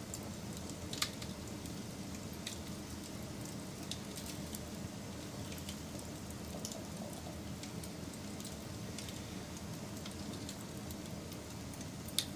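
Wood fire crackling, with a steady low rush of burning and scattered sharp pops and snaps. Two louder pops come about a second in and near the end.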